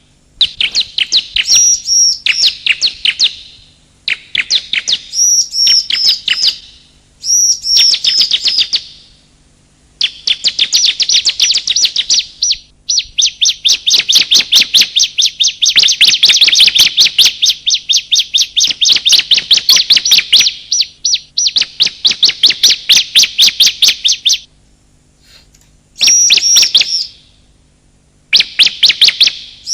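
Bar-winged prinia (ciblek) calling: phrases of fast, rapidly repeated high chips a couple of seconds long, separated by short pauses, running on almost unbroken for about a dozen seconds in the middle.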